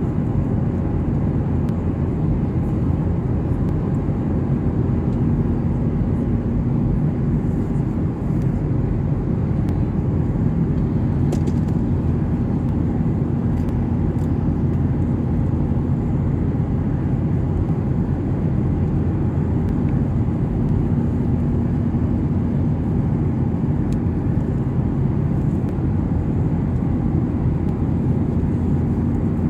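Steady cabin noise of a Boeing 737-800 heard from a passenger seat: the constant rush of its jet engines and airflow, with a low steady hum that drops out and returns a couple of times.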